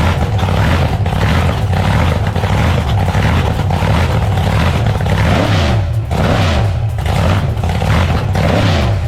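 Car engine running loudly, with a few quick blips of revs rising and falling about five to six seconds in and again near the end.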